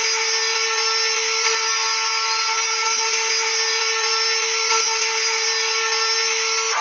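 A power tool's electric motor running at a steady high-pitched whine.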